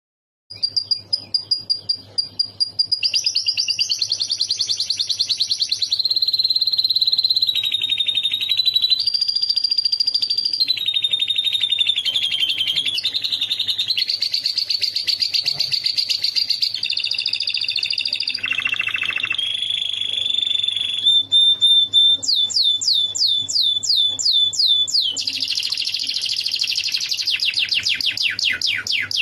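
Domestic canary singing a long, unbroken song of rapid trills that switch to a new phrase every few seconds, its song filled in with phrases learned from lovebirds. Near the end come runs of quick falling notes.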